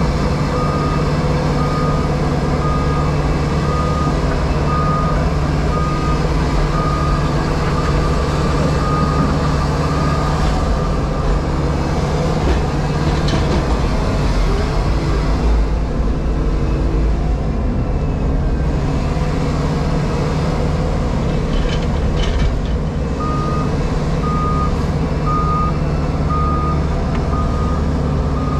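JCB Pothole Pro's diesel engine and hydraulics running steadily, heard inside its cab, with a reversing alarm beeping about one and a half times a second. The beeping stops a third of the way through and starts again near the end, and there are a few faint knocks in between.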